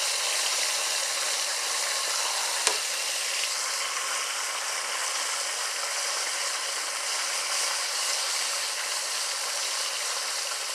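Chicken tenders frying in hot oil, a steady sizzle, with one sharp click about two and a half seconds in.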